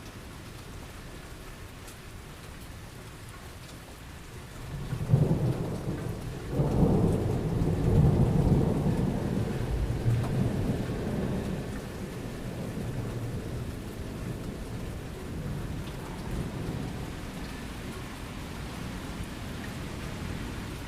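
Steady rain falling, with a loud low roll of thunder about five seconds in that swells again a moment later and slowly rumbles away over the next several seconds while the rain goes on.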